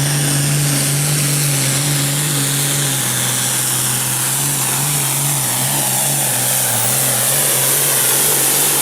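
Limited pro stock pulling tractor's turbocharged diesel engine running flat out under load during a pull. Its note is steady, with slight dips in pitch after about three seconds.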